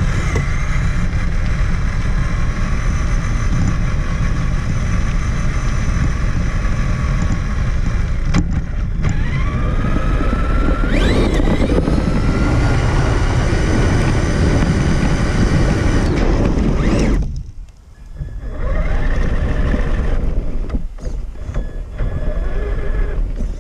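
Traxxas Summit RC truck's electric motor and geartrain whining as it drives over rough ground, heard from a camera mounted on the truck, with a heavy rumble from the chassis and tyres. The whine rises in pitch as it speeds up about halfway through, and the noise briefly cuts out near the end as it stops.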